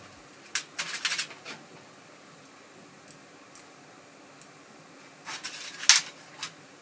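Short scrapes and clicks of metal parts being handled and worked, in two clusters: one about half a second to a second and a half in, and a louder one about five to six seconds in, with a few faint ticks between.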